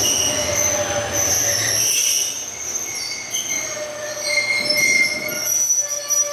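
An Ichibata Electric Railway train pulls in and slows to a stop, its wheels and brakes squealing in several high, wavering tones. The low running rumble fades about two seconds in.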